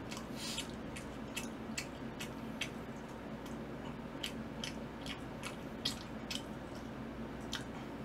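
A person chewing a mouthful of pizza close to the microphone, with about a dozen sharp, irregular wet mouth clicks and smacks.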